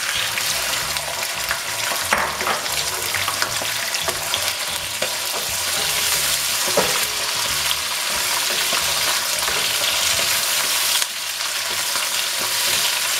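Chicken livers sizzling in hot oil with browned sliced onions in a nonstick kadai, freshly added and frying raw. A steady sizzle, with a couple of sharp knocks of the spatula against the pan as they are stirred.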